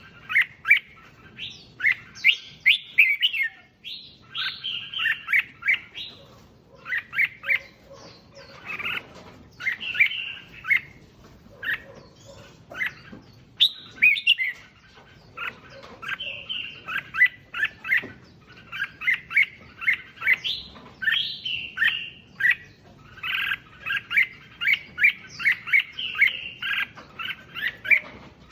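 Red-whiskered bulbul singing: phrase after phrase of quick, clear whistled notes, with short pauses between the phrases.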